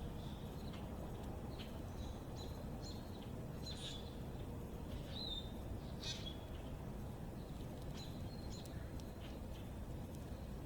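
Small backyard birds giving short, high chirps and call notes every second or so, the loudest about four and six seconds in, over a steady low background rumble.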